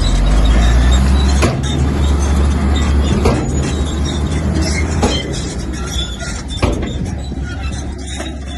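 Komatsu bulldozer at work: a heavy diesel engine running with a deep, steady rumble, and four sharp metallic clanks spaced under two seconds apart.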